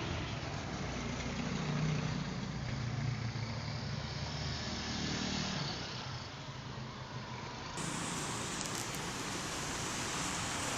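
Motor vehicle engine running with road noise, its low drone wavering in pitch. About eight seconds in the sound changes abruptly to another steady vehicle noise.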